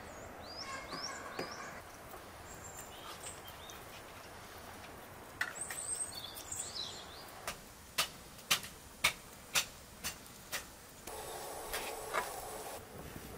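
Small birds chirping in short, falling calls over rural outdoor ambience. About halfway through comes a run of roughly seven sharp clicks, about two a second, and a spell of rustling noise near the end.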